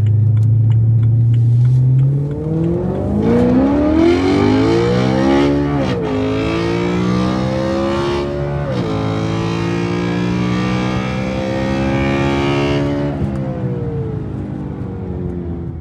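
BMW E93 M3's 4.0-litre V8 heard from inside the cabin: it pulls steadily, then accelerates hard with the revs climbing, shifts up twice with a sharp drop in pitch each time, and settles into steady cruising before easing off near the end.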